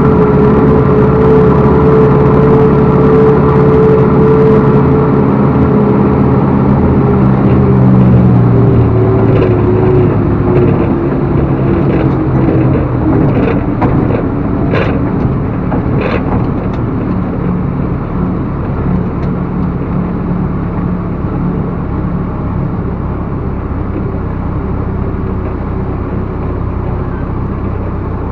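Backhoe loader's diesel engine running at high revs, then dropping to a lower, steadier speed about nine seconds in. A few sharp knocks follow shortly after.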